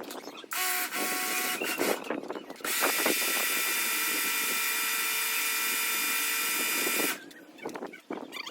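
Car-wash high-pressure water spray: a short burst about half a second in, then a steady loud hiss with a high whine from about three seconds in, cutting off sharply about seven seconds in.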